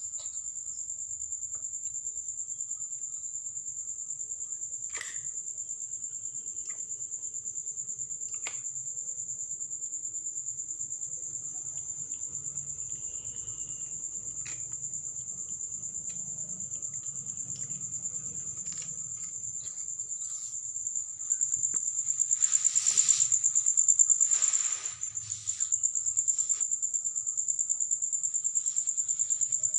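Insects chirring in a steady, finely pulsed high trill, with scattered faint clicks and a louder noisy stretch about three quarters of the way through.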